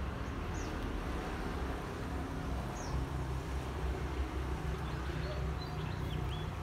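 Outdoor background: a steady low rumble with a few short, high bird chirps, several of them close together about five to six seconds in.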